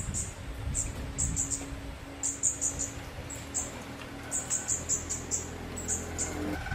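Small birds chirping: short, very high chirps in quick runs of two to four, over a low rumble.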